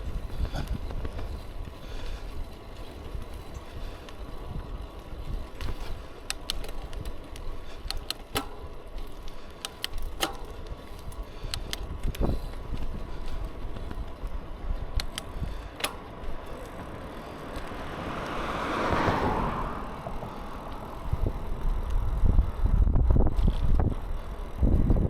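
Riding a bicycle: wind rumbling on the microphone with road noise, and scattered sharp clicks and rattles from the bike. A hissing noise swells and fades about two-thirds of the way through, and the wind rumble grows much louder near the end.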